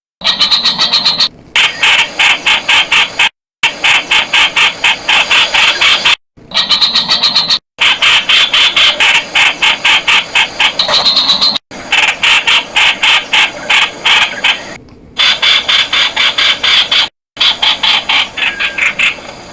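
Streak-eared bulbul calling: fast runs of sharp, harsh repeated notes, many to the second, in stretches of a few seconds broken by short abrupt silences.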